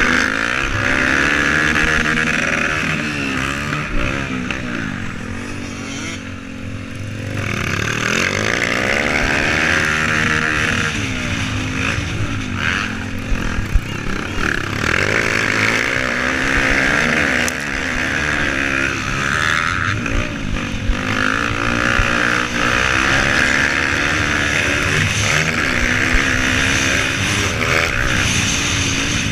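Motocross dirt bike engine being ridden hard, revving up and dropping back again and again through gear changes. It dips briefly about six seconds in.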